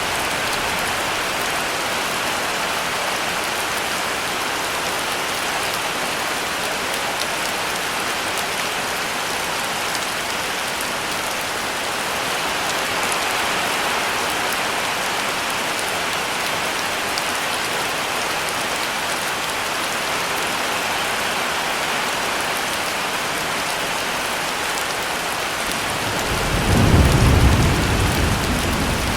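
Heavy rain falling steadily, with a low roll of thunder rumbling up near the end.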